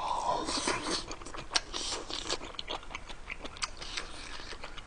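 A man chewing a mouthful of rice with fried egg and kimchi close to a microphone: irregular mouth clicks and smacks, busiest in the first couple of seconds.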